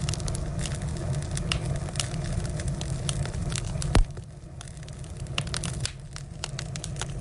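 Firewood burning, crackling with many small pops over a low rumble of flame. One loud pop comes about four seconds in, and the fire is a little quieter after it.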